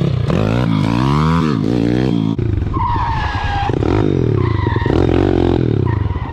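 Small single-cylinder pit bike engine revving hard, its pitch rising and falling again and again as the throttle is worked.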